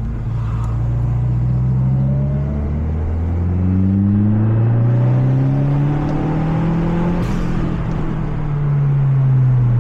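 Mazda 3 MPS's turbocharged 2.3-litre four-cylinder engine heard onboard, pulling hard under acceleration: its pitch climbs, drops back at an upshift about halfway through, then climbs again, with another break near the end.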